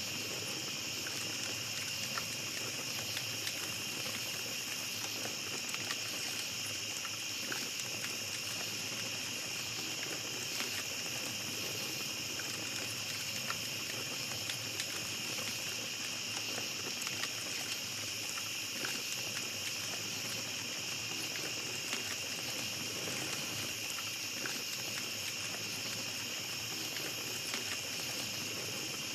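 Small campfire crackling, with frequent small pops scattered irregularly, over a steady high chirring of night insects.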